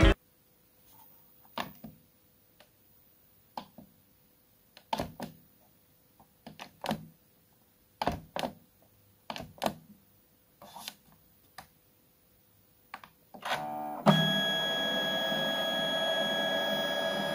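Scattered light clicks and taps of plastic parts being handled, then, about 14 s in, the Canon Selphy CP800 photo printer starts up and runs steadily with a whirring mechanism and a high whine whose pitch settles after a brief rise.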